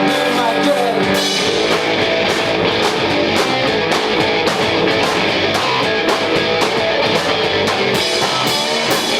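Garage rock band playing live: distorted electric guitar chords over a drum kit, with the drums and cymbals coming in about a second in and keeping a steady beat.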